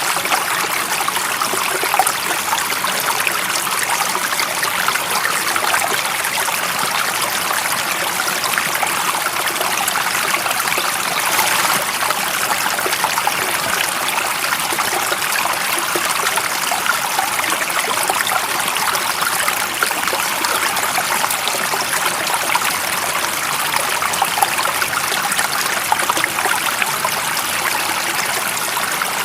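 A stream running steadily, water trickling and splashing over stones in an even, unbroken rush.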